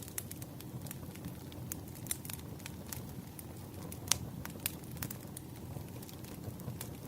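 Burning firewood crackling: irregular sharp pops and snaps over a low, steady rumble of the fire, with one louder pop about four seconds in.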